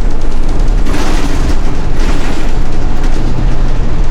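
City bus running through deep snow, a loud steady rumble heard inside the cabin, with chains on its rear wheels.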